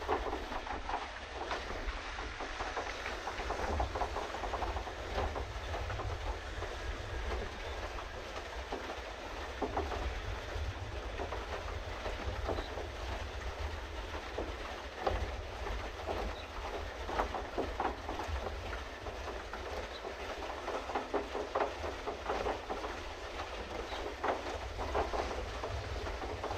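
Pedal boat being pedalled: its paddle-wheel drive churns and clatters steadily with many small irregular clicks and splashes, over a steady low rumble.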